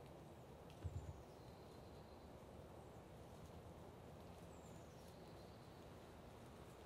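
Quiet outdoor ambience with a bird's faint high call sliding down in pitch, heard twice. A brief low double thump about a second in is the loudest sound.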